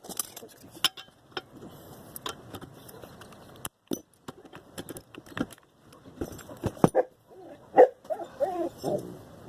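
Metal hand tools clinking and knocking, wrenches or sockets tried on a go-kart's bolts, in irregular sharp clicks, with a short wavering pitched sound near the end.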